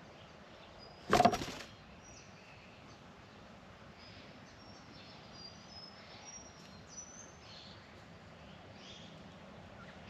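Faint, short, high-pitched chirps of birds over steady outdoor background noise, with one brief loud burst about a second in.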